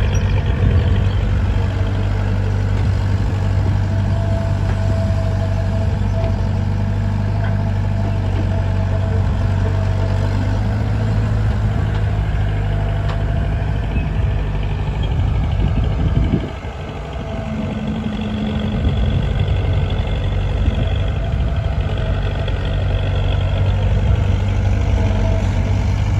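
Diesel engines of a tractor and a JCB backhoe loader running steadily with a low hum while the loader works. About two-thirds of the way through the engine sound drops sharply, then builds back up over a few seconds.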